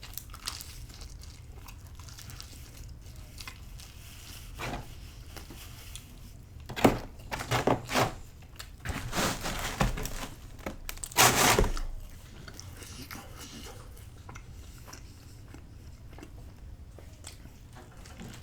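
A person biting and chewing pizza, with a cluster of louder crunching bites between about 7 and 12 seconds in, over a steady low hum.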